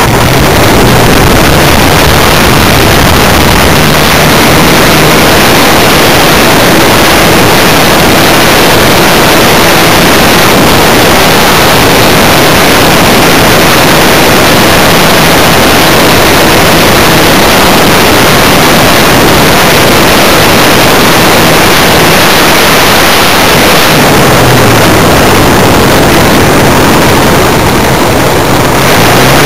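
Funtana S90 aerobatic model plane in flight, heard from its onboard camera: a loud, dense rush of wind and propeller noise that overloads the microphone. The engine's pitch, faint beneath the rush, dips and rises near the end.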